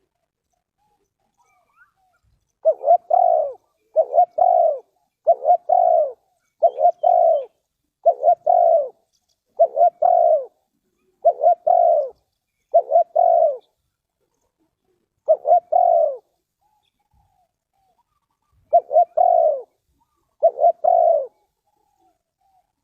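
Spotted dove cooing: a run of about eleven short, repeated coo phrases, one every second and a half or so, with a couple of longer pauses.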